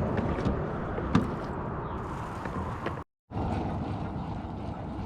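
Steady wind and water noise around a kayak, with a single sharp click about a second in. The sound cuts out completely for a moment just after three seconds in.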